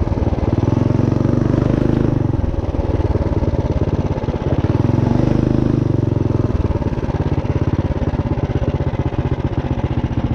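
Minibike's built Tillotson 212 single-cylinder engine running, rising in speed twice: about half a second in, and again around five seconds in.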